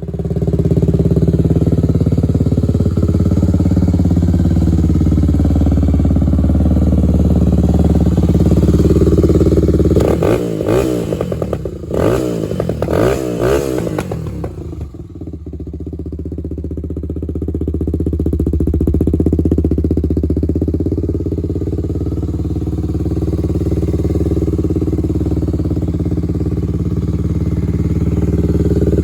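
1986 Honda ATC350X's single-cylinder four-stroke engine idling through an Empire aftermarket exhaust, revved in several quick blips between about ten and fifteen seconds in, then dropping back to a steady idle.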